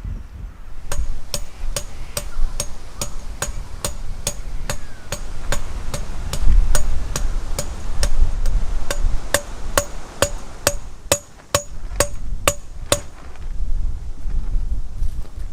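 A hammer driving a metal tent peg: a steady run of sharp strikes, about two a second, each with the same ringing note. The strikes stop a couple of seconds before the end. Low wind rumble runs underneath.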